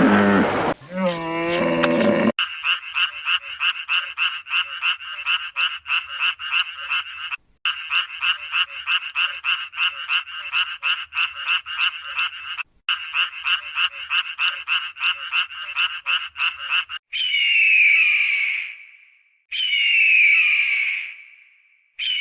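An animal calling: rapid high chirps at about five a second, in three runs with short breaks, then three longer falling calls near the end.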